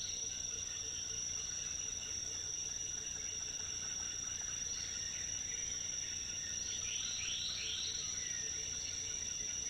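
Tropical rainforest ambience: a steady, high-pitched insect drone, with a quick run of three short chirps about seven seconds in.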